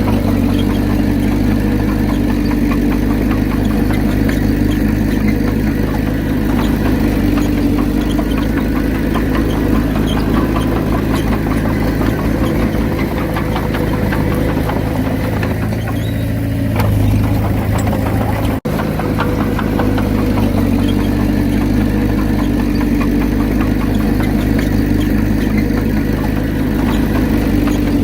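Komatsu D31P bulldozer's diesel engine running steadily while working. Its note shifts briefly about two-thirds of the way through, with a momentary break in the sound soon after.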